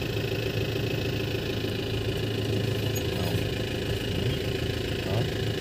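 Isuzu Crosswind's engine idling steadily.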